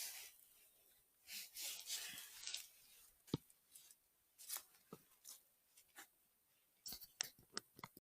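Faint, scattered rustling, snapping and tearing of forest-floor litter as chanterelle mushrooms are picked, in short separate bursts with pauses between.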